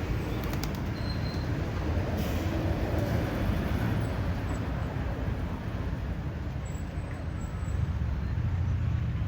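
Road traffic passing on a city boulevard: a steady low rumble of engines and tyres that swells a little now and then.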